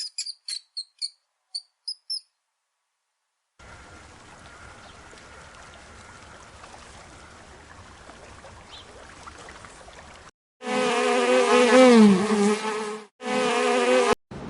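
Flying insect buzzing loudly, its pitch wavering up and down, broken off once briefly near the end. Before it come a quick run of short high chirps and a stretch of faint steady hiss.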